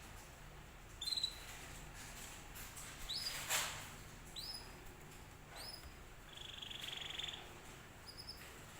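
Domestic canary giving short, high, upward-flicking chirps a second or two apart, with one rapid buzzy trill a little past the middle. About a third of the way in there is a short sharp rustle or knock.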